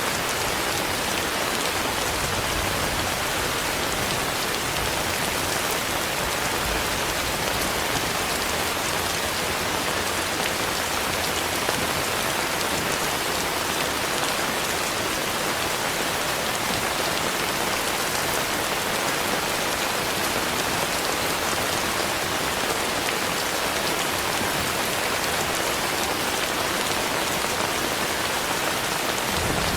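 Steady rain falling, a dense even hiss of many drops that does not let up.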